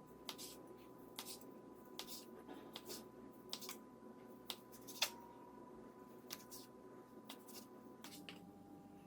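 Knife slicing pan-grilled chicken breast into thin slices, the blade tapping the cutting board in faint, irregular strokes, with the sharpest one about five seconds in.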